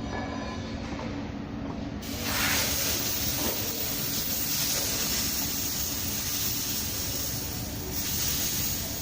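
A steady spraying hiss starts suddenly about two seconds in and carries on over a low, steady hum.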